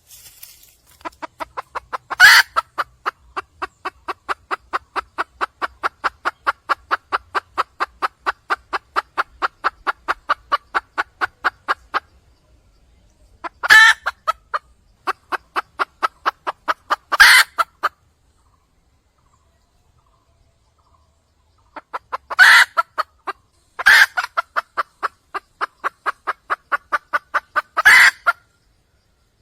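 Red junglefowl hen calling for a male: long runs of quick clucks, about four a second, in three bouts, each broken by a few louder, sharper squawks.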